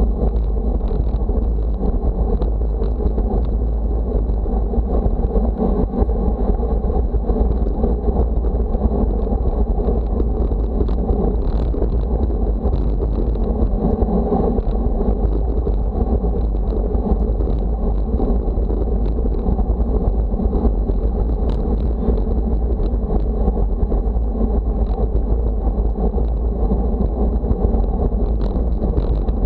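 Steady wind noise rumbling on the microphone, a deep, unbroken rush with no pauses.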